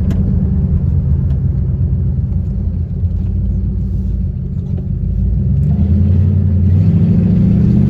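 Ford Mustang GT V8 running through its newly installed exhaust with a low, deep rumble. It eases off about three seconds in, then grows louder from about five and a half seconds as the engine pulls harder.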